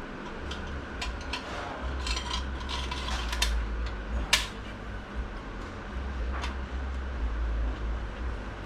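Scattered light metal clicks and clinks as a snap ring is worked into its groove in a Ford AOD transmission case, with one sharp metallic click about four and a half seconds in, over a low handling rumble.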